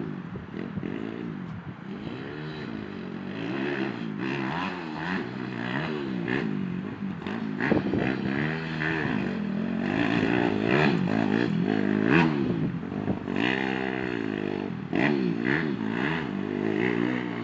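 190cc dirt bike engine revving up and down over and over as it is ridden, its pitch rising and falling every second or two as the throttle is opened and closed. There are a few short knocks along the way.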